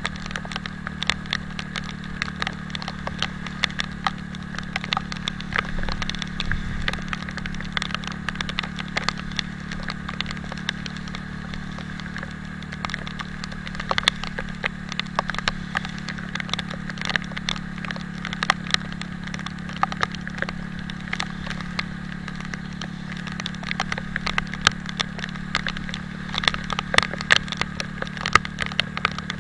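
Raindrops striking close to the microphone in many irregular sharp ticks, over the steady low drone of an Italika 250Z motorcycle's engine.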